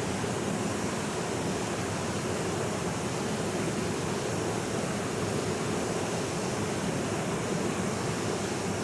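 Waterfall: a steady, unbroken rush of falling water with no changes, used as white noise.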